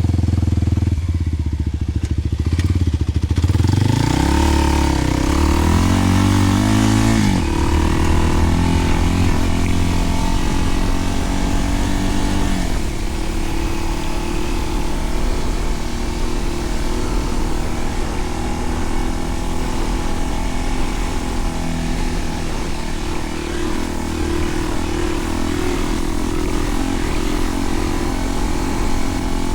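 Kawasaki KLX300's single-cylinder engine through a Delkevic 10-inch oval slip-on exhaust. It runs low for the first few seconds, then accelerates with its pitch climbing, drops back sharply about seven seconds in, and runs at a steady pace.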